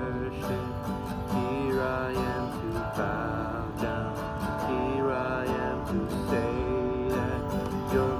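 Strummed acoustic guitar accompanying a man singing a slow worship song in long, held notes.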